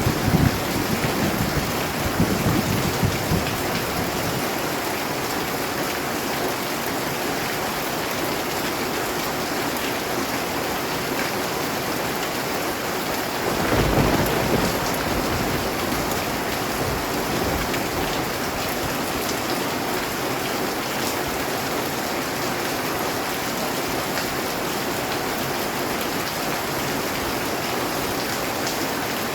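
Steady rain, with a low rumble of thunder dying away over the first few seconds and a shorter low rumble about halfway through.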